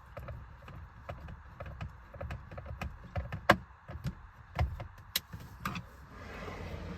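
Irregular clicks and knocks of hand reassembly work on the steering wheel's plastic trim and Torx screws, the sharpest about three and a half and five seconds in. About six seconds in, a steady whirring hiss starts.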